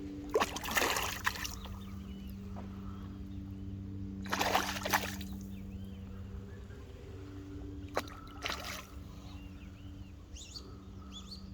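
A hooked snook splashing at the water's surface while being fought on light line: three short splashes, each lasting about half a second to a second, one near the start, one in the middle and one about two-thirds through, over a steady low hum.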